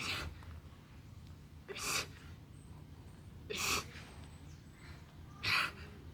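A man's sharp, forceful exhales through the mouth, one about every two seconds, each short and hissy, in time with push-up repetitions.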